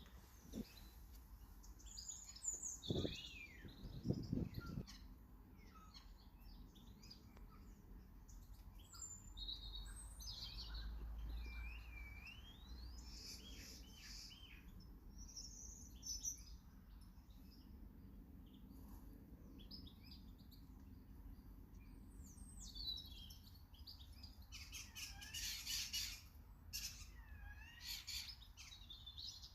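Small garden birds chirping and calling, with many short chirps and sliding whistled notes. A few low knocks sound about three and four seconds in.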